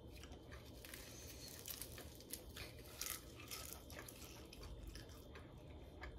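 Faint, scattered crunches and small clicks of someone chewing crisp battered deep-fried spare ribs.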